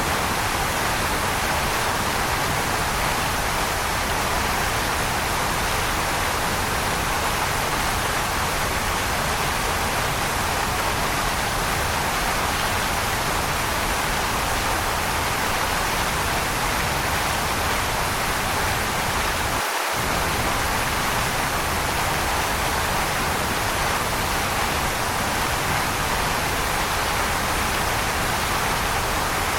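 Waterfall, a steady, even rush of falling water; the low rumble drops out for an instant about twenty seconds in.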